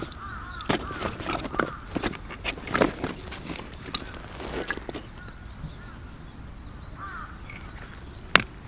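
A bird calling in short runs of repeated calls, with scattered sharp clicks and knocks, the strongest near the end.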